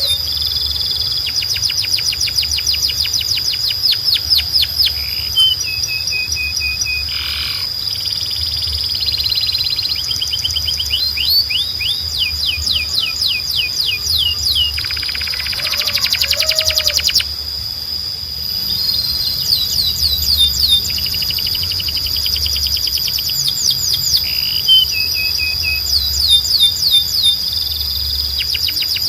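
Domestic canary singing: long trills of quick, repeated downward-sweeping high notes, with a fast buzzing roll around the middle and a steady high whistle running underneath.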